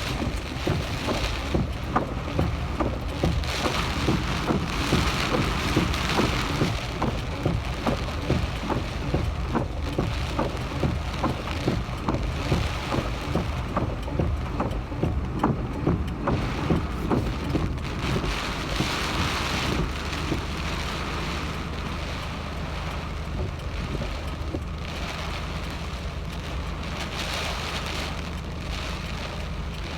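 Typhoon rainstorm: rain pattering in irregular taps over a rush of wind, with a low rumble of wind on the microphone. About twenty seconds in, the tapping thins out and a steadier rush remains.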